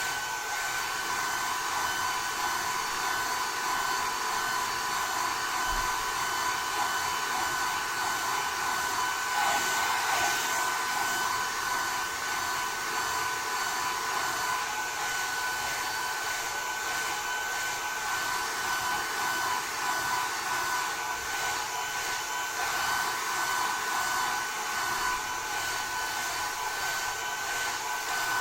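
Two hair dryers, a Panasonic and a TESCOM, blowing at once: a steady rush of air with two steady whining tones, swelling slightly about ten seconds in.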